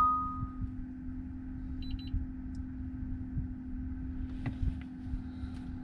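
Steady hum inside a car cabin with the ignition on, over a low rumble. The tail of a chime fades out at the start, a few faint short beeps come about two seconds in, and there is a click about four and a half seconds in.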